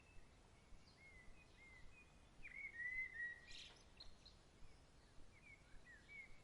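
Birds chirping faintly, a series of short, sliding notes repeated on and off over a quiet background hiss. About three and a half seconds in there is a brief rustle.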